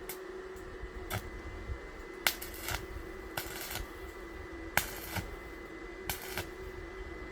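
Workshop handling noise: irregular sharp clicks and knocks of metal pieces and tools, with two short bursts of hiss, over a steady machine hum with a faint high whine.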